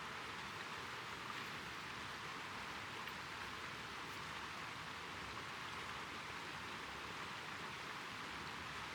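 Steady, even hiss of falling precipitation, with a few faint ticks.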